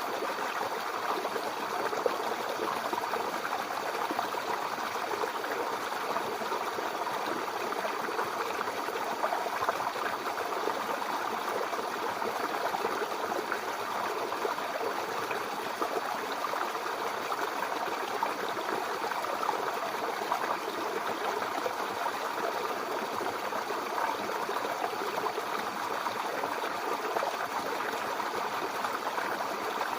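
Mountain river water flowing steadily over rocks: a continuous rushing and burbling with no change.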